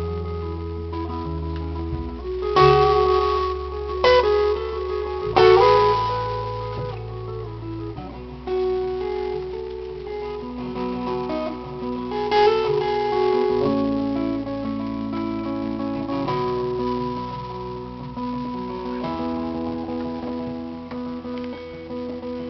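Live band playing an instrumental break, led by strummed guitar over a sustained bass line, with no vocals. The chords change every few seconds, with a few sharper strikes in the first six seconds.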